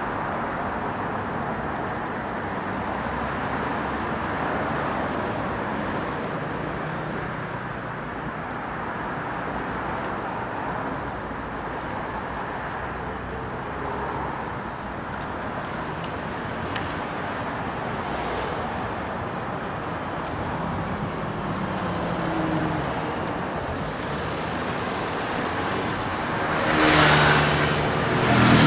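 Steady road traffic noise, cars passing along the road, with a louder vehicle going by close near the end.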